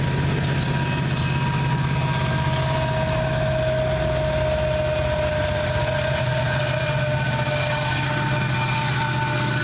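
BNSF coal train rolling past: a steady low rumble of cars on the rails, with several thin steady high tones over it, one strengthening about two seconds in.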